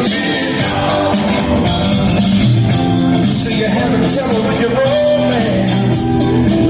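Live rock band playing loudly and steadily, with a wavering lead melody line over the band.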